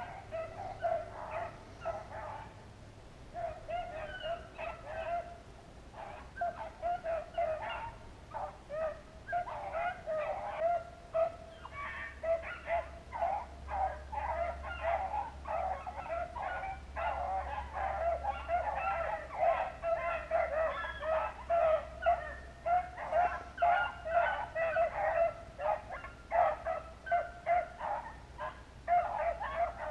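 A pack of hunting hounds baying in chorus, as they do when running a rabbit. The calls overlap in a rapid, continuous stream, thin out for a few seconds near the start, then grow denser and louder through the second half.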